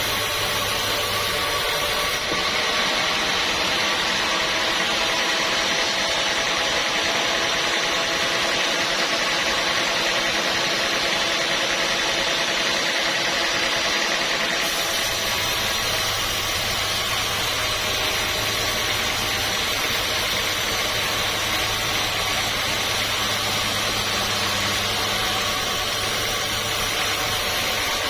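Sawmill machinery running continuously: a steady motor hum with several fixed whining tones over a noisy wash. The low hum drops out for about thirteen seconds, from about two seconds in, then comes back.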